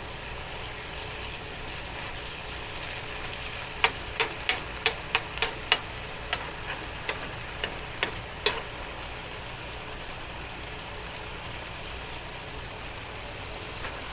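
Vegetables sizzling in a frying pan as their remaining water cooks off. Between about four and eight and a half seconds in comes a run of a dozen or so sharp taps, a stirring utensil knocking against the pan.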